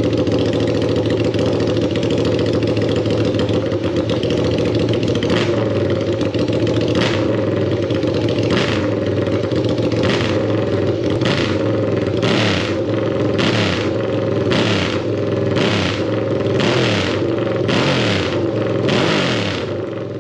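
Motorcycle engine running steadily. From about five seconds in it is revved in regular bursts, about every one and a half seconds at first and then about once a second.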